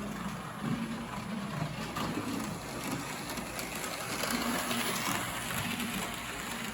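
HO-scale model steam locomotive running on the track: its small electric motor hums with a wavering pitch while the wheels rattle steadily on the rails.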